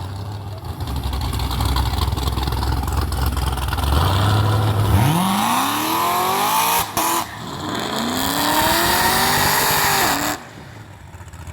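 Drag-racing car engines idling with a low rumble, then launching and accelerating hard with a rising whine. There is a brief break as the gear shifts about seven seconds in, then a second rise in pitch before the sound drops away suddenly near the end.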